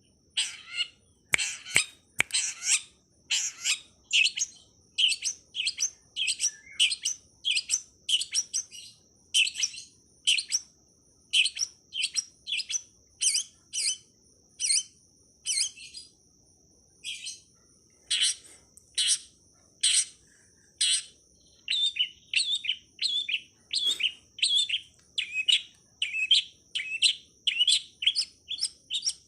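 Long-tailed shrike (pentet) calling: short, sharp, high chirps repeated about one to two times a second, over a steady high-pitched whine.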